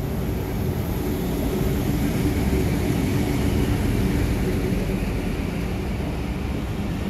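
Diesel-electric locomotive running past slowly, then passenger coaches rolling by on the rails with a steady low rumble that is loudest a couple of seconds in.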